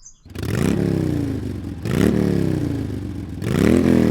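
An engine revved three times, each rev rising quickly in pitch and then falling away.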